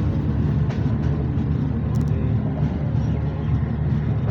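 Moving passenger train running with a steady low rumble.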